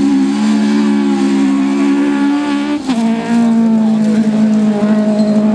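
Rally car engine held at high revs on one steady note, with a sharp click and a brief dip in pitch about three seconds in, after which the note holds again.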